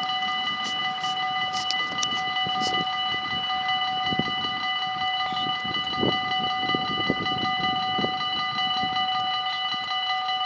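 Freight train approaching from a distance: a steady high ringing of several held tones over a low, uneven rumble.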